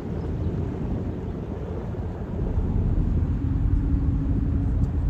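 Low, steady rumble of a tour boat's engine underway, getting louder about halfway through, with a faint steady hum joining near the end.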